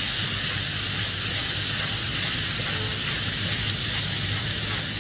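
Minced meat (keema) with green chillies sizzling steadily in hot oil in a pan while it is stirred with a spatula, being fried down (bhuna) after extra oil was added. A low steady hum runs underneath.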